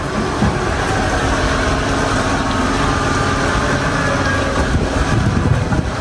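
Heavy truck engines running steadily.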